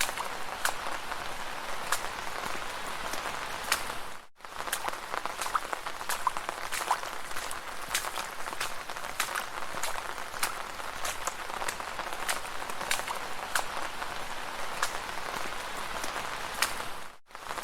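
Footsteps splashing through shallow puddles, a wet slap with each step at an uneven walking pace over a steady watery hiss. The sound cuts out briefly about four seconds in and again near the end.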